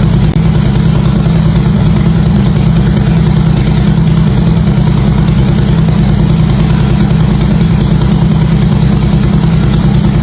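Harley-Davidson V-twin motorcycle engine idling steadily through its exhaust, with an even low pulsing and no revving.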